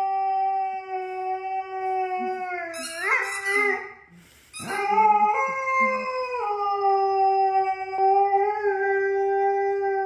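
A dog howling: one long, steady howl that wavers and breaks off about four seconds in, then a second long howl that briefly rises in pitch before settling and holding steady.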